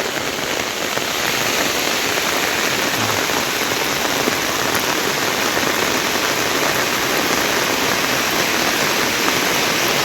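Steady rushing hiss of rainwater flowing in after a storm.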